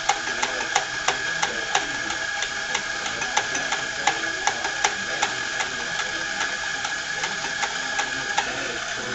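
Coffee grinder running, grinding espresso coffee, with a steady whine and a regular clicking about three times a second; it stops at the very end.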